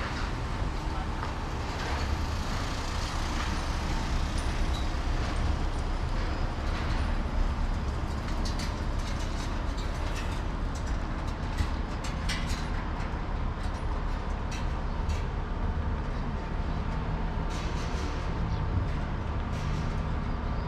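Road traffic: a steady low rumble of passing vehicles, with scattered short sharp clicks in the middle and near the end.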